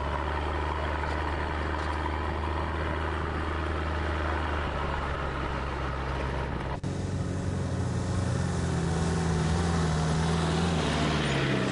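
4x4 vehicles driving over desert sand, engines running at steady revs. About seven seconds in the sound cuts abruptly to another vehicle's engine, whose pitch shifts as the revs change.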